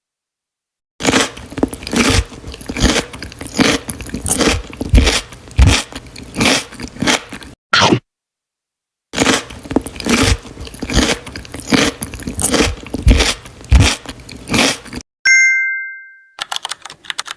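Close-miked crunching and chewing of crisp food in two long runs of irregular crackling bites. A short two-note chime sound effect rings briefly near the end.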